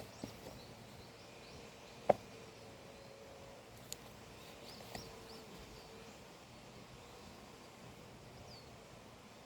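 Quiet natural outdoor ambience with small birds giving short, high chirps here and there. A sharp click about two seconds in is the loudest sound, and two lighter clicks follow a couple of seconds later.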